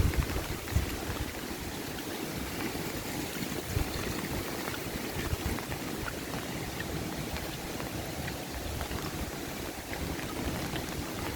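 Steady rain falling, an even hiss, with a few low thumps in the first second.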